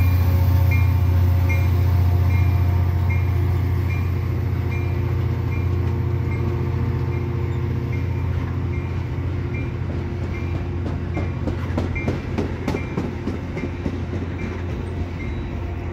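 Metra commuter train pulling out: the diesel locomotive's low engine drone fades as it draws away, while a bell dings steadily about every two-thirds of a second. In the second half, the passing bilevel coaches' wheels clack over the rail joints.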